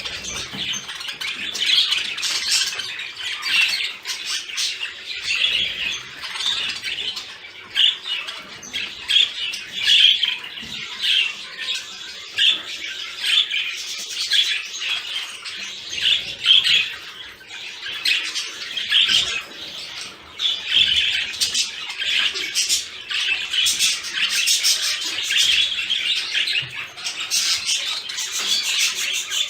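Budgerigars chattering and warbling without a break: a dense run of quick, high chirps and trills.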